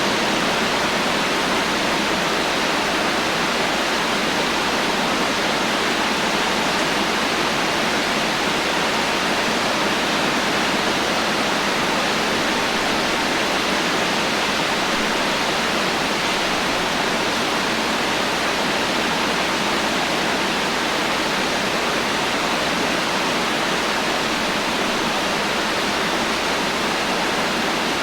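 Heavy rain falling steadily as an even, dense hiss, with no thunder and no single drops standing out.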